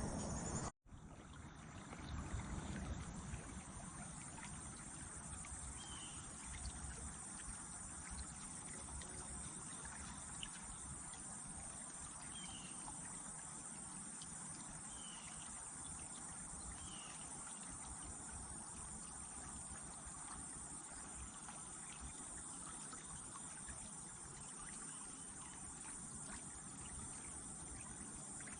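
Faint, steady riverside ambience: an even hiss of flowing water and insects with a low rumble beneath, broken by a few short, high bird chirps spread several seconds apart. It cuts out for a moment just under a second in.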